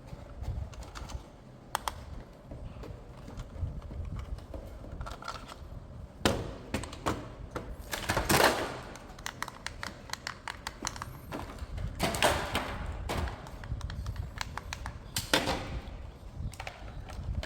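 Hands handling a plastic toy and its packaging: a run of light clicks and taps with several short rustling bursts, the loudest about eight seconds in and again around twelve and fifteen seconds.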